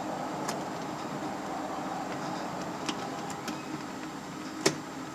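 Light clicks and taps of a door-latch rod being worked into its plastic retaining clip inside a car door. One sharp click near the end as the rod snaps into place. A steady hum runs underneath.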